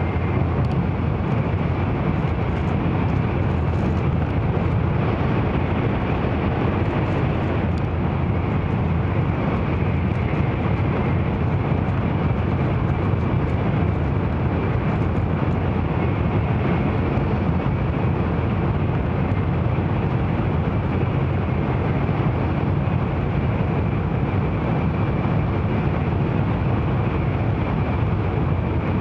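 Steady running noise of an N700-series Shinkansen at speed, heard inside the passenger cabin: a constant low rumble with a hiss above it.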